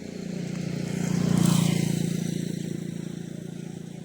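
A motor vehicle's engine passing by: the hum grows louder to a peak about a second and a half in, with a short rush of tyre and air noise as it goes by, then fades away.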